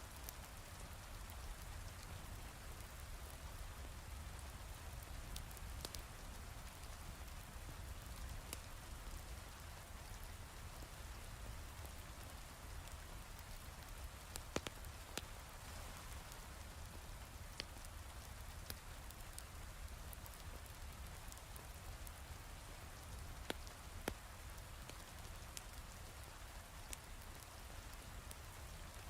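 Heavy rain falling steadily, with sharp crackles from a wood fire in a fireplace now and then.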